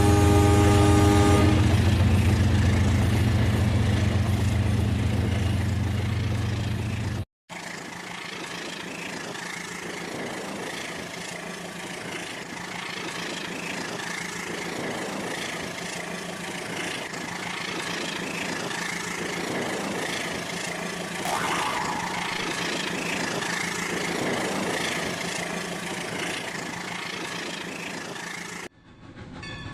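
Battery-powered toy train running on plastic track with a steady motor whir and wheel noise. Its electronic horn toots for about a second and a half at the start. The sound breaks off abruptly twice, at about seven seconds and again just before the end.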